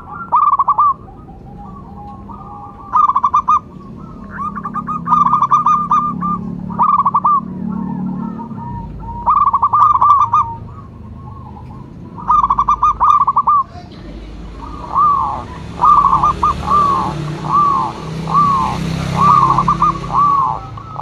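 Zebra dove (perkutut) cooing in short bursts of rapid staccato notes with pauses between them. About two-thirds of the way through, the song changes to a steady run of separate slurred coos, about two a second, with a faint hiss behind them.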